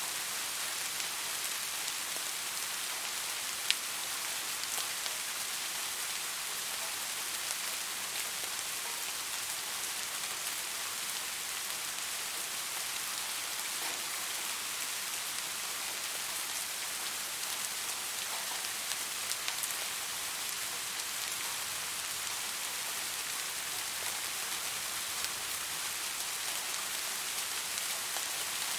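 Steady rain falling, an even hiss with scattered drops ticking through it and one sharper drop about four seconds in.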